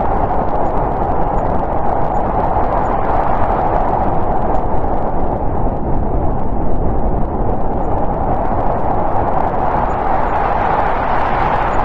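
Snowstorm wind blowing steadily, easing a little in the middle and building again near the end.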